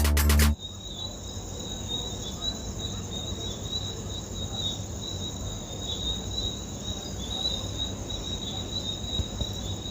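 Crickets chirping in a steady, high, trilling chorus over a faint low rumble, after music cuts off about half a second in.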